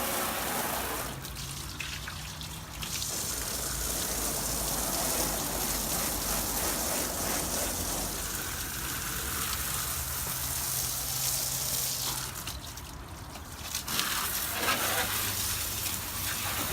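Water spraying onto a car's engine bay, a steady hissing gush that lets up briefly twice.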